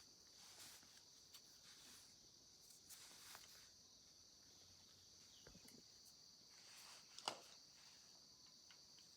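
Near silence: a faint steady high-pitched drone, with a few soft clicks and taps and one sharper click about seven seconds in.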